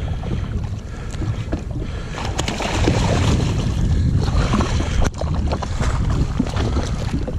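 Wind buffeting a camera microphone on a jet ski at sea, with water sloshing around the hull.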